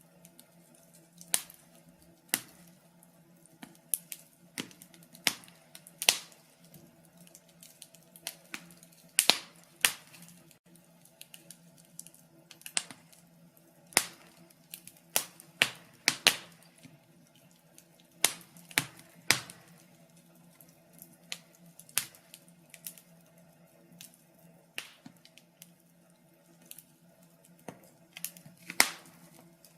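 Wood fire crackling, with sharp pops and snaps coming at irregular intervals over a faint steady low hum.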